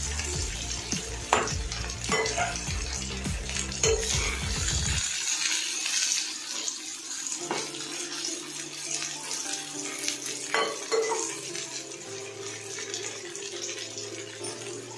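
Stuffed brinjals sizzling steadily in oil in a metal kadai, with a metal spatula scraping and knocking against the pan several times.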